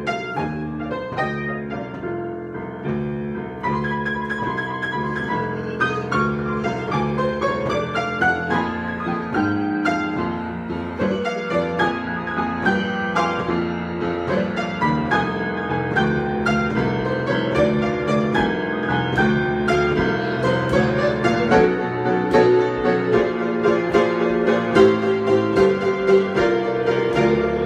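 Solo piano being improvised: a continuous stream of chords under a moving melody line, growing a little louder over the last several seconds.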